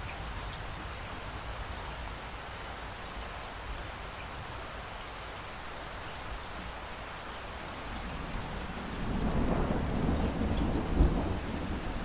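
Steady hiss of falling water, like heavy rain, with a low rumble of thunder building about three-quarters of the way in and peaking near the end.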